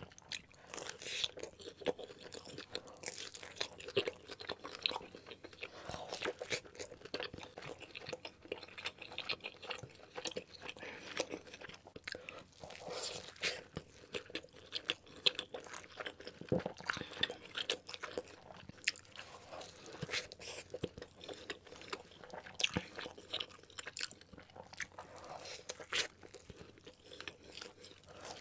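Close-miked chewing and biting of pepperoni-and-cheese pizza and a cheeseburger: a dense, irregular run of sharp clicks and crackles from the mouth.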